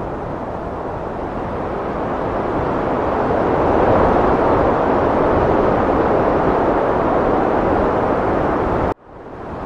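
Heavy wind blowing in a steady rush that swells louder through the middle, then cuts out suddenly near the end and quickly fades back in.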